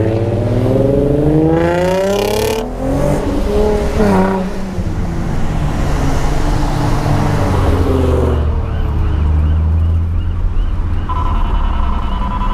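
Infiniti G35's 3.5-litre V6 through an aftermarket exhaust, accelerating with its pitch climbing for the first couple of seconds. It drops and rises again around four seconds in, then settles into a steadier low drone. A steady high tone starts about eleven seconds in.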